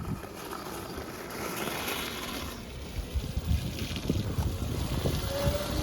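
Wind rushing and buffeting over the microphone, a steady rushing noise with a low rumble. Near the end a faint, slightly rising tone comes through.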